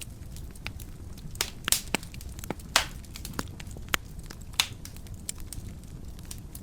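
Wood fire in a fireplace crackling, with irregular sharp pops over a low steady rumble of the flames; the loudest pops come a little under two seconds in, near three seconds and about four seconds in.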